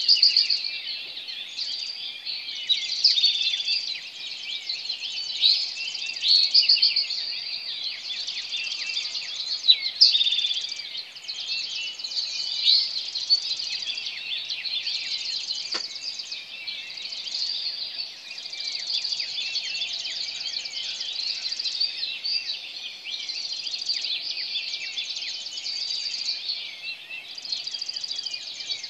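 Dawn chorus: many birds calling and singing at once, a dense unbroken mix of overlapping chirps, whistles and trills.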